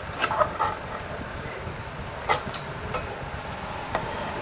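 Scattered light clicks and knocks of a TV main board and its cable connectors being unplugged and handled, over a steady background hum.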